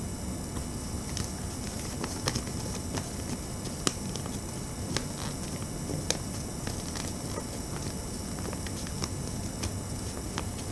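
Origami paper being folded and creased by hand: scattered short crackles and taps of paper over a steady hiss.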